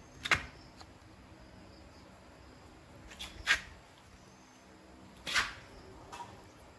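Three short, sharp knocks, a few seconds apart.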